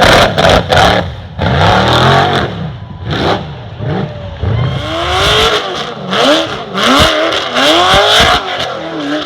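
Off-road truck engine revving hard again and again, its pitch rising and falling with each burst of throttle, with sharp knocks and bangs mixed in.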